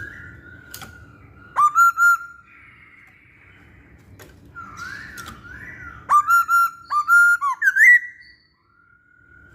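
Masked laughingthrush (Poksay Hongkong) singing: soft warbling throughout, broken by loud, clear whistled notes, three about a second and a half in and a longer run of about eight from six to eight seconds in that ends on a rising note.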